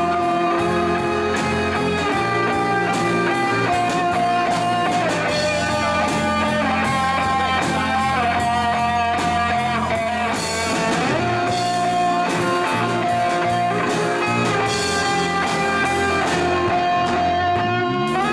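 Pop-rock band playing an instrumental passage, led by a guitar holding long notes that bend up and down over bass and drums.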